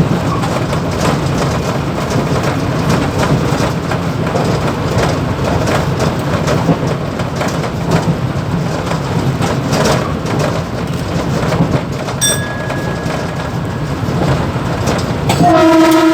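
Mumbai suburban EMU local train running at speed, heard from the driver's cab: steady rumble and hum with rail clatter and rattling. Near the end, a train horn sounds one long steady blast.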